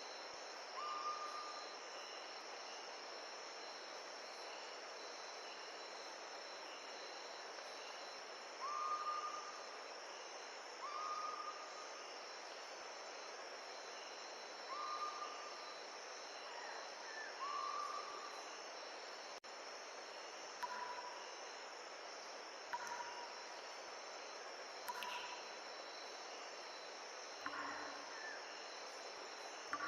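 Outdoor natural ambience: a steady insect chorus of high, thin trilling over an even hiss, with an animal's short calls repeated every few seconds.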